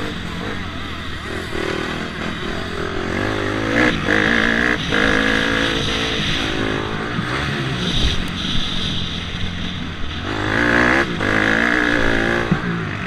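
Motocross dirt bike engine revving and running on the track, its pitch rising and falling as the throttle opens and closes, with two louder surges about four and eleven seconds in.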